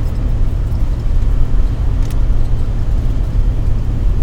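Steady low rumble of a car driving, engine and road noise, with a faint click about two seconds in.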